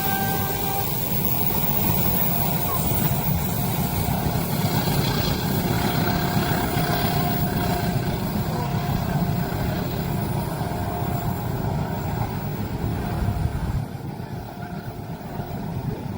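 Steady low rumble of a heavy vehicle, dropping off suddenly about fourteen seconds in.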